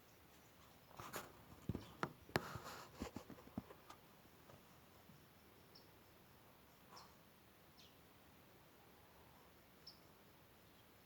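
Small wild birds at a drinking spot, mostly quiet: a quick cluster of soft clicks and taps in the first few seconds, then a few faint, very short high chirps now and then.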